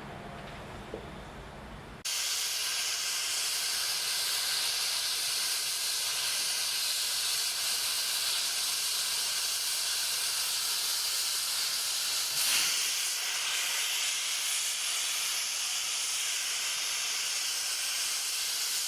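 Steam hissing steadily from a 1948 Stephenson 0-4-0 saddle tank steam locomotive. The hiss starts suddenly about two seconds in, after a quieter low rumble.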